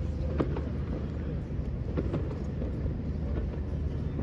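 City street ambience: a steady low rumble of traffic, with a few faint short knocks.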